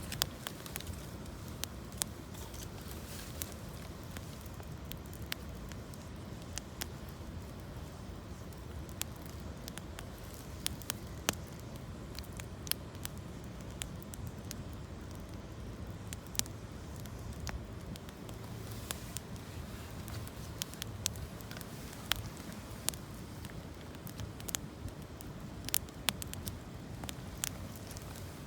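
Campfire of gathered branches and fallen leaves crackling, with many irregular sharp pops and snaps over a steady low rushing background.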